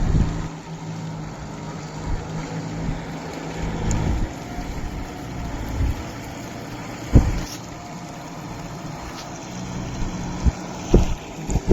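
Kubota MU 5502 tractor's four-cylinder diesel engine running steadily under load while plowing, with a few sharp low thumps of wind buffeting the microphone.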